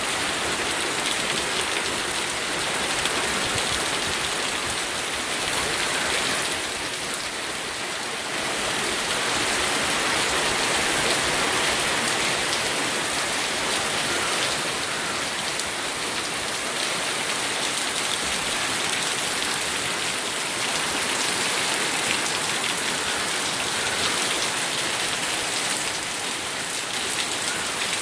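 Steady rain falling and pattering on surfaces, a dense hiss of many drops with no let-up.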